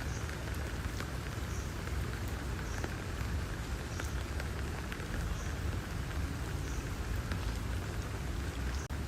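Steady rain, with scattered single drops tapping and a low rumble underneath.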